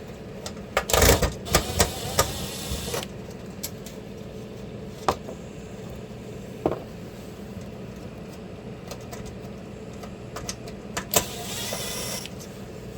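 Screws being backed out of a glove box's front plastic panel: a few short whirring runs with scattered clicks and small knocks of the tool and parts.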